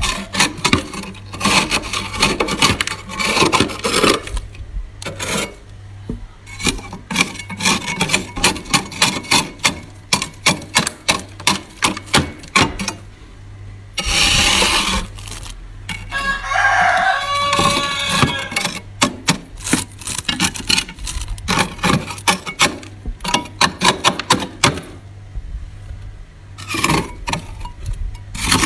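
Freezer frost being scraped and crunched: fast runs of sharp, crackly crunches, with a longer scraping stretch about halfway through.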